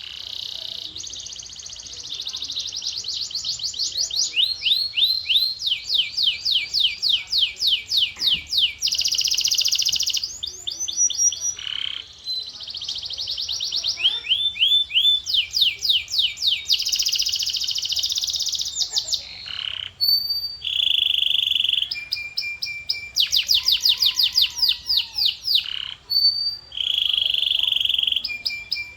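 Male canary singing a continuous song of fast trills: rapid repeated notes high in pitch, each run changing to a new trill type every second or two, with a few short held whistles and buzzy rolls mixed in.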